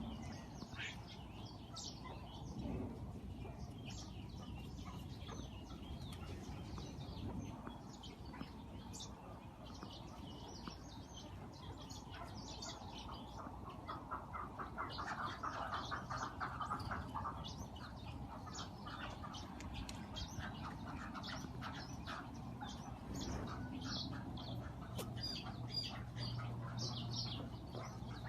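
Many birds chirping and calling with short, high notes throughout, and a run of rapid, lower calls about halfway through.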